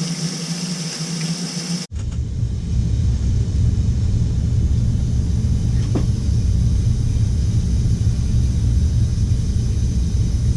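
Hot water running from a sink faucet, then cut off abruptly about two seconds in by a loud, steady low rumble.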